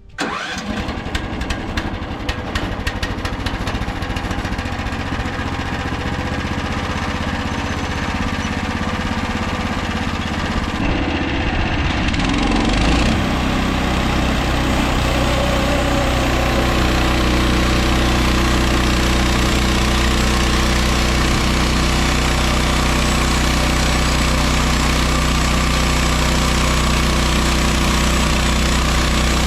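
Gasoline engine of a MechMaxx SM32 portable band sawmill catching and running, uneven at first, then throttled up about twelve seconds in and running steadily at high speed.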